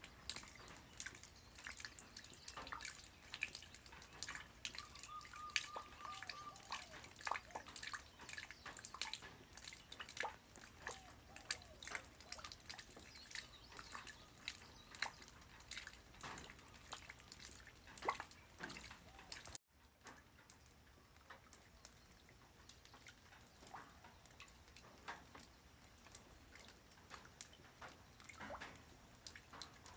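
Light rain falling on the ground, individual drops landing in an irregular patter. About two-thirds of the way in the sound drops out for an instant, then carries on softer with fewer drops.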